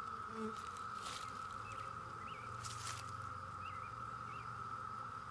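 Honeybees buzzing around an open hive, over a steady high-pitched hum. A few faint bird chirps and two short rustles, about one and three seconds in.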